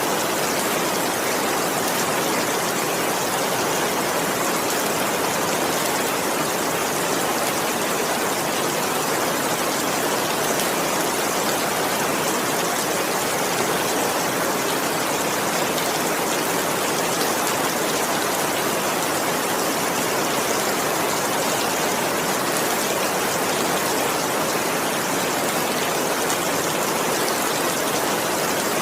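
Steady heavy rain, an even unbroken hiss with no thunder.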